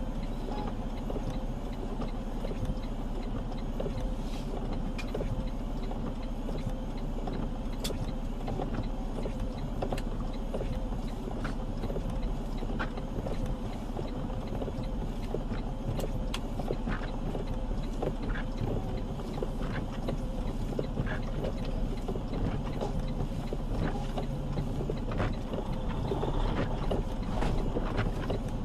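Steady engine and road drone inside a semi truck's cab, with scattered light clicks and rattles throughout.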